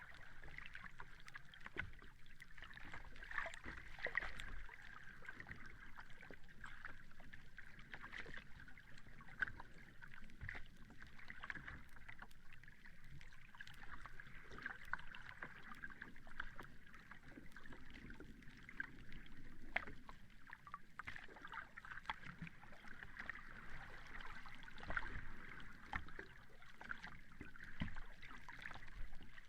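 Calm sea: small waves lapping and washing, with a steady fizz and crackle of water and gentle swells in loudness.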